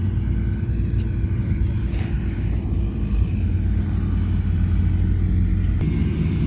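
Heavy diesel construction machinery running steadily with a deep rumble, with a sharp click about a second in and another near the end.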